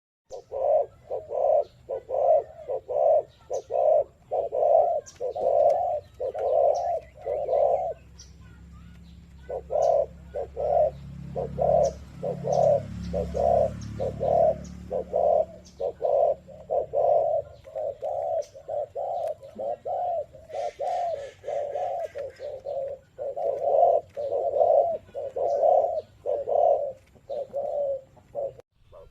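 Spotted doves cooing over and over in quick, even notes, about two a second, with a short break about eight seconds in. A low rumble runs under the coos around the middle.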